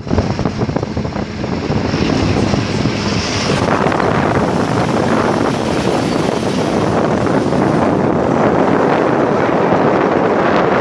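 Dump truck running, a steady loud engine and road noise, with wind buffeting the microphone.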